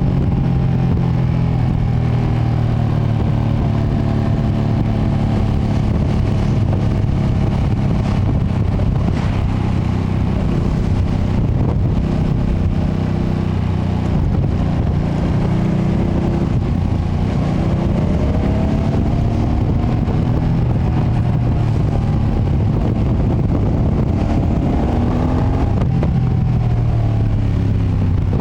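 2025 Ducati Panigale V2S's V-twin engine running on its stock exhaust while being ridden, its pitch rising and falling with the throttle, with steady road noise underneath.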